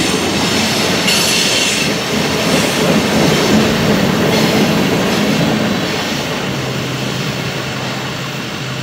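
Loaded freight cars (covered hoppers and tank cars) rolling past on steel wheels, clacking over the rails with bursts of wheel squeal. The noise fades once the last car clears, about six seconds in. A steady low engine hum takes over near the end.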